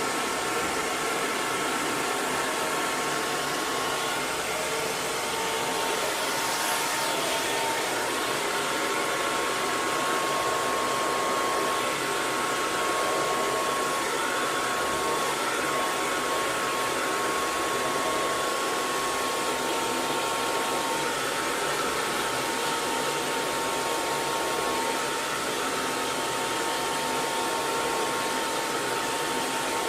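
Hair dryer running steadily on one setting: a constant blowing hiss with a faint steady whine. It is used as white noise to soothe a colicky baby to sleep.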